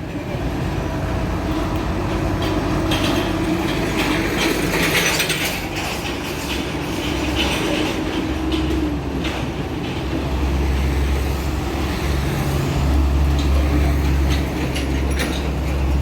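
Heavy concrete mixer truck running with a steady low rumble that grows stronger partway through, with scattered metallic clanks and rattles.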